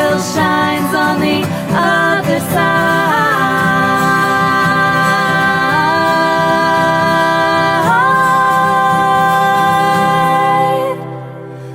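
A song: a voice sings long held notes over steady accompaniment, stepping up in pitch twice, then the music drops away near the end.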